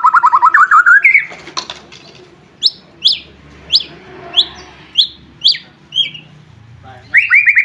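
White-rumped shama (murai batu) singing: a fast rising trill, then a string of about eight short, sharp whistles sliding down in pitch, about half a second apart, and another fast trill near the end.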